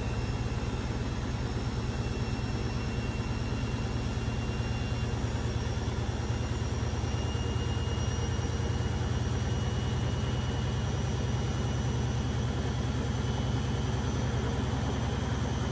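Beko WMB 71643 PTE front-loading washing machine running steadily at speed: a strong low drone from the spinning drum, with a faint high whine from its brushed motor.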